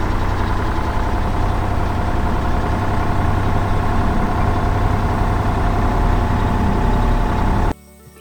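A heavy construction machine's engine running steadily with a low rumble, then cutting off suddenly near the end.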